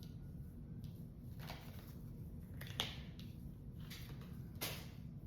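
Tarot cards being handled and set down: a few soft, brief rustles and taps over a low room hum.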